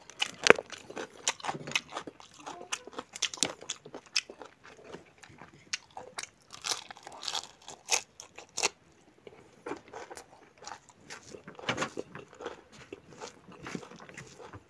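A person chewing and biting food close to the microphone: an irregular run of sharp mouth clicks and crunches, with a few louder ones.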